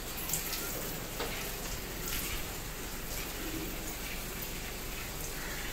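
Faint bird calls over a steady background hiss, with a few soft ticks.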